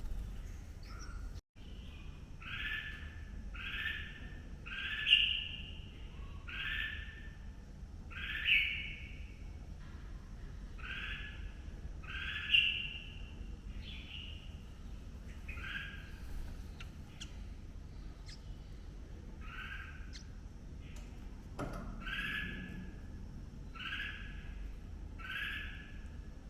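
Red-whiskered bulbul calling at the nest: a short two-pitched note repeated steadily about once a second, with a few louder notes among them.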